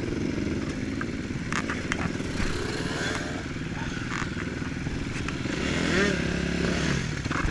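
Motocross bike engines revving up and down, their pitch rising and falling repeatedly, with a few sharp clicks and clatters.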